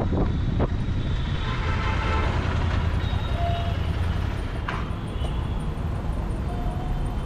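Royal Enfield Continental GT 650's 648 cc parallel-twin engine and exhaust running steadily under way, a low rumble that eases slightly after about halfway.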